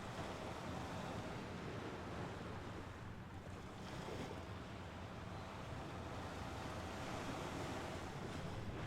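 Mediterranean Sea waves washing onto the shore, a steady rush that swells and eases, with louder surges about a second in, around four seconds, and again near the end.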